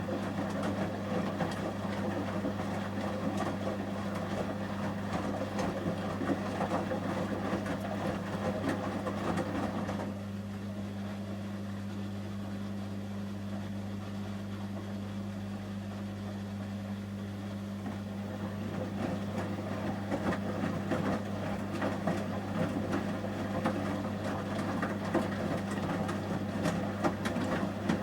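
Samsung front-loading washing machine in the heated wash stage of its 30°C shirts programme: the drum tumbles the load with water sloshing over a steady hum. The tumbling stops about a third of the way in, leaving only the hum, then starts again about two-thirds of the way through.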